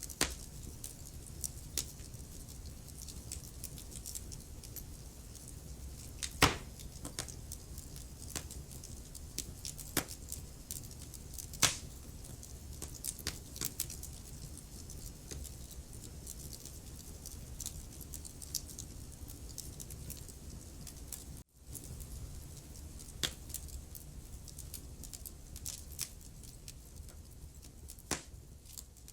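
Wood fire crackling in a fireplace: irregular snaps and pops over a steady low rumble, with two louder pops early on. The sound drops out for an instant about two-thirds of the way through.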